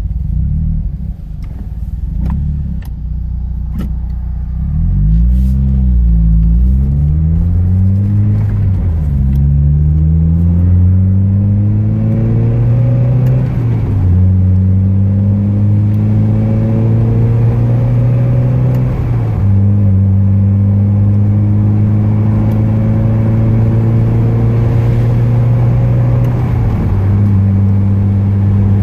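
NB Mazda Miata's four-cylinder engine through a Roadster Sport 3 exhaust with a MagnaFlow cat and resonator, heard from inside the cabin while driving. The engine note climbs in pitch under acceleration and drops at each upshift, several times, then settles into a steady low hum at cruise.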